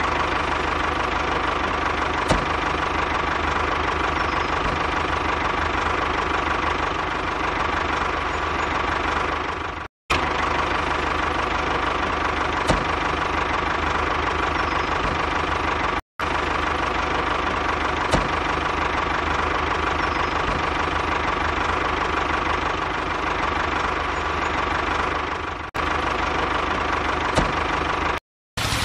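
Small engine of a DIY mini tractor running steadily with a fast, even pulse, cutting out briefly three times.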